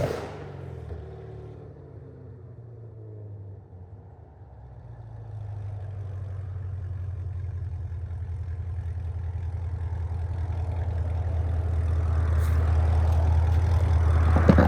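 Chevrolet Camaro ZL1's supercharged V8 through an aftermarket exhaust: the tail of a sharp rev dies away at the start, then a low, steady engine rumble grows steadily louder from about five seconds in.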